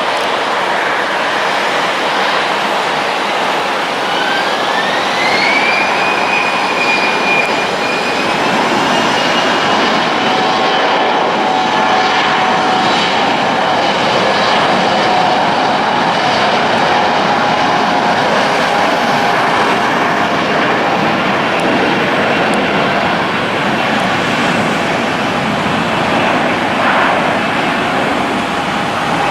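Jet airliner engines running loud and steady. About four seconds in, a high whine rises in pitch as the engines spool up, then holds steady over the roar.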